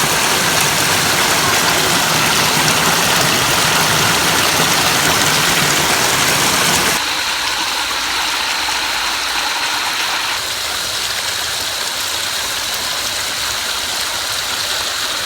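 Rushing water of a waterfall and stream, a steady loud hiss that drops abruptly and turns thinner and quieter about seven seconds in.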